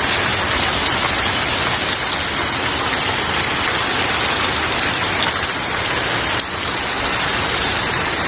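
Heavy rain pouring down steadily and densely.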